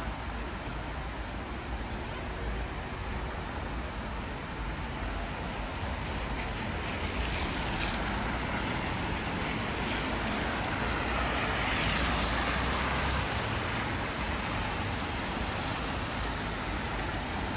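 Steady hiss of rain and wet street noise, swelling for a few seconds in the middle of the stretch before easing back.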